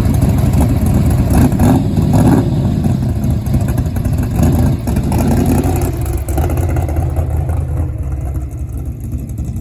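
A 512 cubic-inch Mopar big-block stroker V8 in a 1968 Plymouth Barracuda drag car, running loud under way and easing off toward the end.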